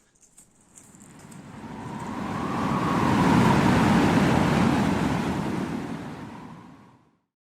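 A rushing whoosh that swells up over a few seconds, peaks in the middle and fades away, with a faint steady tone running through it.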